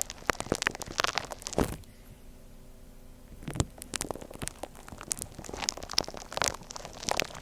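Gritty shaved-ice slime being squished and worked, giving dense crunchy crackling and popping from its granular texture. It stops for about a second and a half around two seconds in, then resumes.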